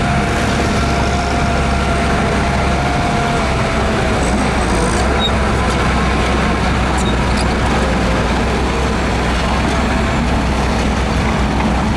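Heavy diesel earthmoving machinery running steadily with a deep rumble, a bulldozer at work. A thin whine sits over it and fades out about four seconds in.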